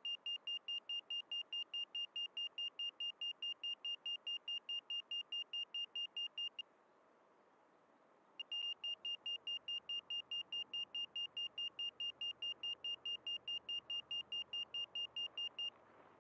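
Small electronic buzzer beeping rapidly in one high pitch, about four beeps a second, pausing for a couple of seconds near the middle and then starting again.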